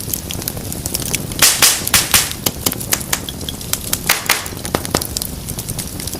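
Wood fire crackling steadily with sharp pops, the loudest cluster about a second and a half in and another about four seconds in.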